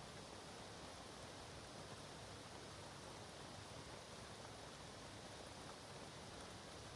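Light rain falling in woodland, faint and steady.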